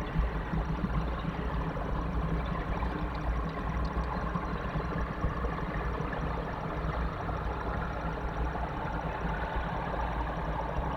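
Steady low rumble and hiss of ambient noise, with no distinct events.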